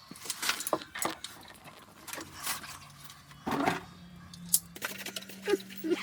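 Irregular clicks, knocks and rattles of tools and pipe fittings being handled during heating-pipe repair work, with a faint steady hum setting in about two thirds of the way through.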